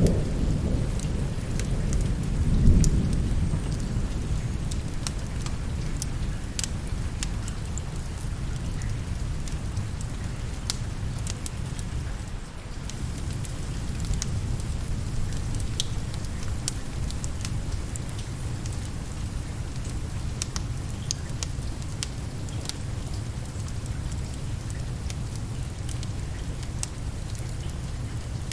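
Steady rain with a low roll of thunder that swells about two to three seconds in and fades, over scattered sharp crackles and pops of a wood fire.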